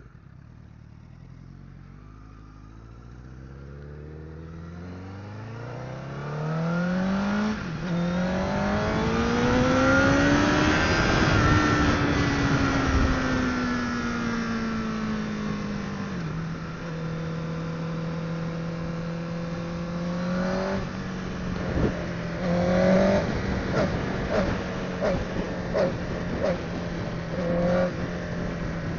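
Honda CBR1000RR inline-four engine accelerating hard: revs climb, drop with a gear change about 7.5 s in, climb to a peak about 11 s in, then fall off. After another gear change about 16 s in it holds a steady cruise with a few brief throttle surges, under steady wind rush.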